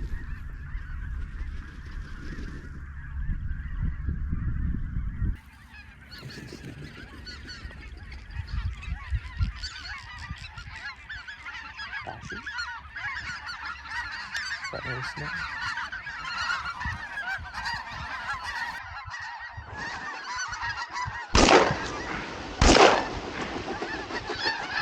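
Dense chorus of snow geese and white-fronted geese calling overhead. Near the end come two shotgun shots from a Franchi Affinity semi-automatic, a little over a second apart.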